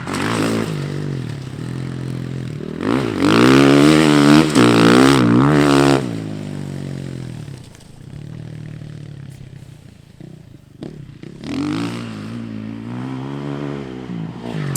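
Dirt bike engine revving up and down as it rides the track, loudest about three to six seconds in, dropping back and growing faint for a few seconds, then climbing again near the end.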